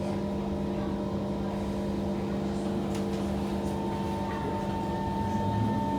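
Kawasaki C151 metro train running, heard from inside: a steady electrical hum from the traction equipment over wheel-on-rail rumble, with a whine starting to rise in pitch about five seconds in.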